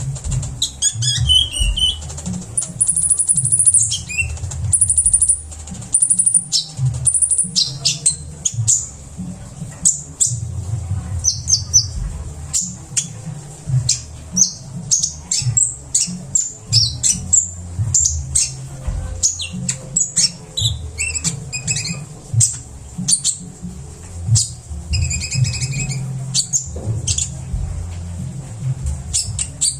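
Kolibri ninja sunbird singing a fast, varied song of high chirps, trills and sharp whistled notes in quick succession, over a low rumble.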